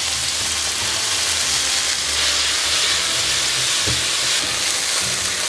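Chopped vegetables, onion and peanuts sizzling steadily in hot oil in a nonstick wok, stirred with a silicone spatula, with a couple of light spatula knocks about four seconds in.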